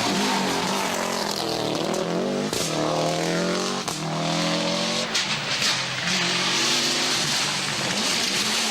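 Subaru Impreza GC8 rally car's flat-four engine revving hard, its pitch repeatedly climbing and dropping through gear changes and lifts. Sharp cracks sound around four seconds in and again a little after five.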